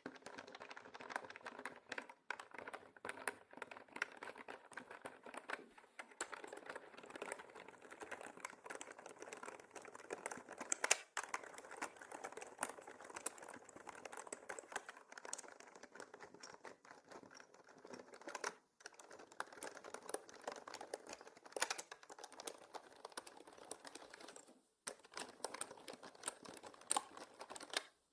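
Mechanical keyboard typing: a fast, continuous run of key clicks, broken by two short pauses past the middle and near the end. The audio is mixed as 8D, panned around the listener's head.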